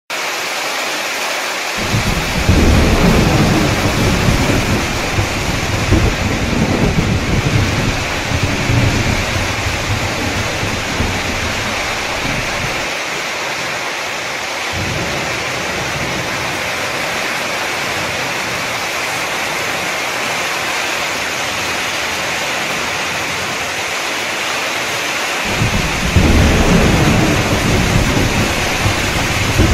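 Torrential rain and storm: a loud, steady hiss of heavy rain, with a deep rumble from about two seconds in until about twelve seconds in, and again near the end.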